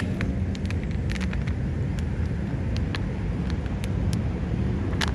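Steady low outdoor rumble with scattered faint clicks through it.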